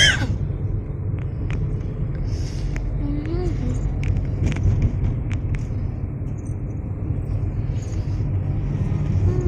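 Steady low road rumble inside a moving car, with scattered small clicks. A brief high squeal falls away right at the start.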